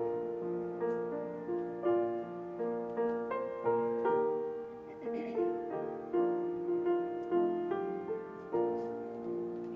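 Piano music: single notes and chords struck about once or twice a second and left to ring and fade.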